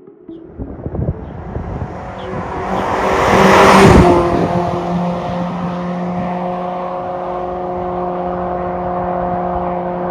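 Toyota RAV4 hybrid's 2AR-FXE 2.5-litre four-cylinder engine through an MS-R valved cat-back exhaust, rising in sound to a peak about four seconds in, then settling to a steady, even drone.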